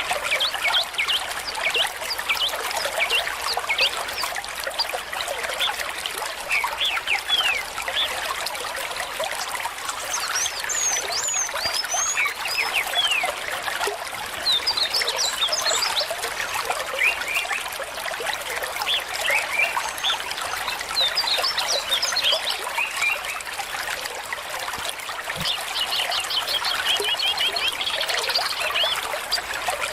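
Stream water trickling and burbling steadily, with many short high notes scattered through it and a quick run of repeated notes near the end.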